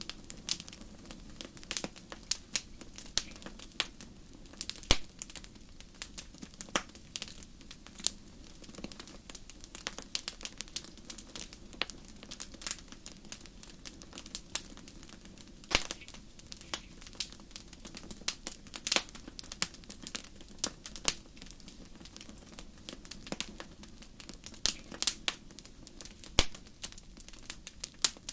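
Wood campfire crackling, with frequent irregular sharp pops and snaps, some louder than others, over a faint steady low background.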